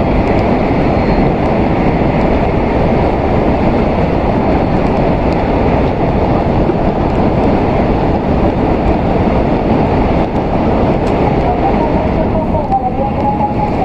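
Steady running noise of an N700S Shinkansen train heard inside the passenger cabin: a dense, even mix of wheel and air noise, mostly low in pitch, with a faint wavering tone near the end.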